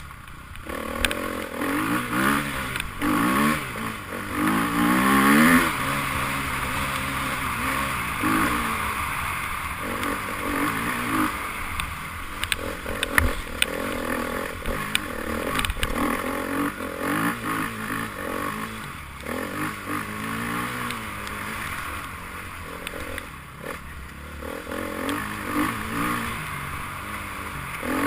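Enduro dirt bike engine revving up and down over and over as it is ridden, the pitch rising and falling with each throttle blip, loudest about five seconds in, with some clattering.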